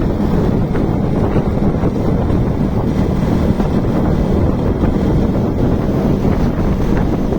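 Wind rushing over the microphone on a moving motorcycle, with the engine running steadily underneath.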